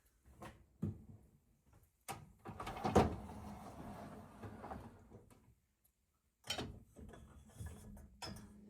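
Household handling sounds: a series of knocks and clatters, like a door, drawer or cupboard being moved and things set down, the loudest about three seconds in.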